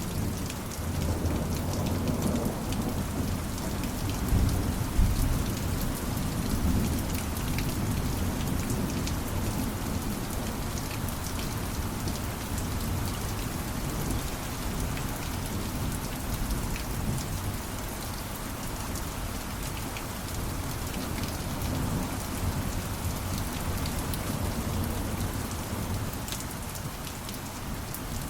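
Steady rain falling, thick with fine drop ticks. A low rumble of thunder comes in about a second in, is loudest around four to five seconds in, and fades after that.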